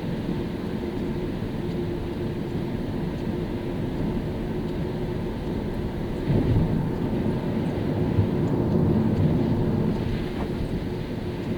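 Car driving on a rain-wet road: steady tyre-on-wet-asphalt and engine noise, swelling louder for a few seconds about halfway through.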